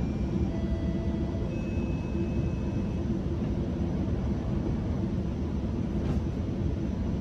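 Steady low rumble of a GO Transit commuter train heard from inside a passenger coach, with a few faint thin high tones in the first few seconds and a faint click about six seconds in.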